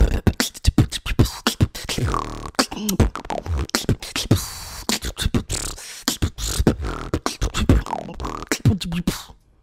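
Female beatboxer performing a fast, dense beatbox routine: sharp mouth-made kick, snare and hi-hat strikes, with gliding pitched vocal sweeps woven through. It stops near the end.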